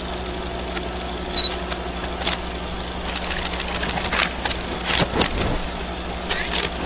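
Car engine running steadily with a low hum, with scattered light clicks and knocks over it.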